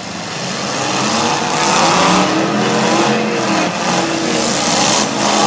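Full-size demolition derby car engines revving hard, their pitch rising and falling, getting louder about a second in.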